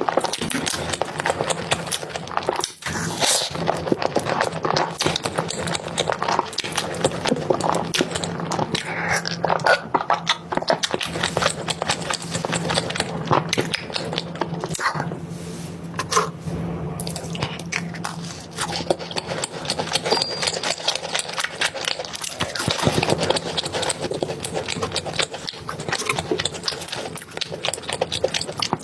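Close-miked eating of a soft crepe roll cake: chewing with wet mouth and lip sounds, a dense run of small irregular clicks and smacks.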